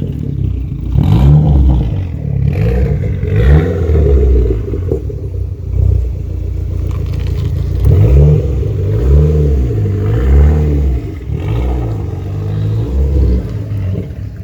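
Big-turbo Dodge Neon SRT-4's turbocharged 2.4-litre four-cylinder revving hard again and again, its pitch rising and falling in repeated sweeps.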